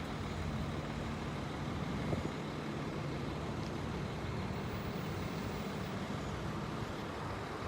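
A motor vehicle engine idling steadily, a low even hum with a small bump about two seconds in.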